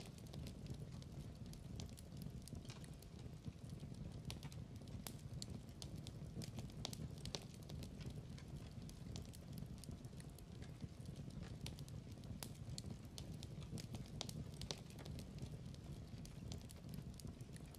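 Burning logs crackling in a fireplace: irregular sharp pops and snaps over a low, steady rumble of the fire.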